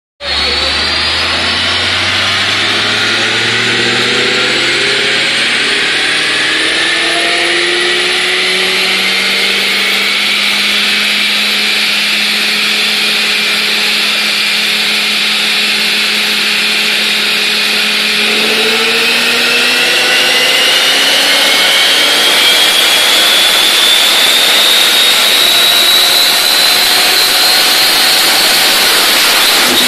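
Ford Mustang Shelby GT500's supercharged V8 on a chassis dyno under a long full-throttle pull, engine speed climbing slowly with a shift in pitch about two-thirds of the way through, and a high whine rising in pitch along with it.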